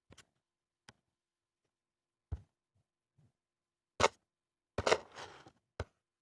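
Scattered knocks and bumps with quiet between them: a few light taps, a loud knock about four seconds in, then a louder rustling cluster and one last knock just after.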